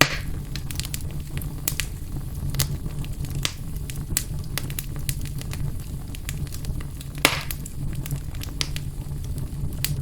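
Fire burning in a fireplace: frequent sharp crackles over a low steady rumble, with two louder pops, one at the start and one about seven seconds in.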